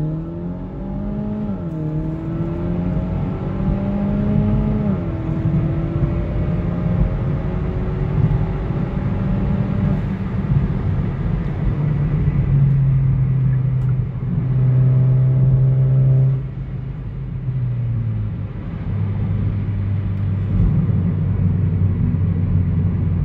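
Hyundai Elantra GT Sport's 1.6-litre turbocharged four-cylinder engine and aFe axle-back exhaust under hard acceleration. The revs climb and drop back at two upshifts in the first five seconds, then rise slowly to a steady drone. The revs fall about sixteen seconds in and hold lower.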